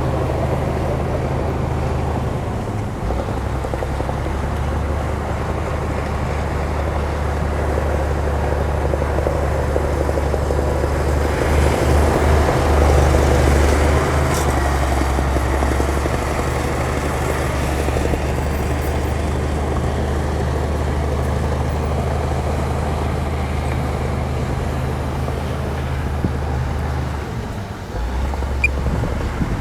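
Heavy diesel engine of an earthmoving machine running with a steady low drone. It grows louder for a few seconds near the middle and dips briefly near the end.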